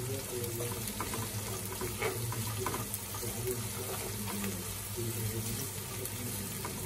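Sliced onion, ginger, garlic and dried chillies sizzling steadily in hot oil in a nonstick wok, stirred with a spatula that scrapes and taps against the pan now and then. The aromatics are being sautéed until they turn golden.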